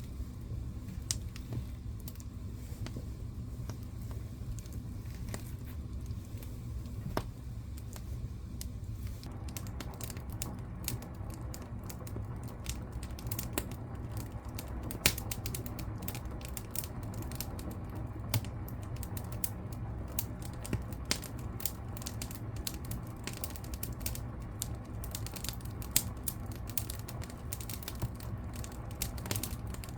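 Wood fire crackling in a fireplace: a steady low rumble of flames under irregular sharp pops and snaps, which come thicker from about a third of the way in.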